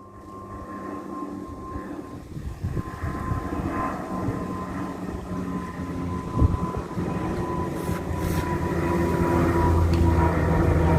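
De Havilland Canada Dash 8 Q300 twin turboprop climbing out after takeoff, its engine and propeller drone growing steadily louder as it approaches. A steady high whine runs over the drone and drops slightly in pitch near the end.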